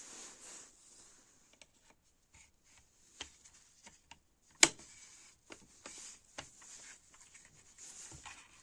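Hand work on small parts: scattered light clicks, taps and rustling, with one sharp, loud click about halfway through.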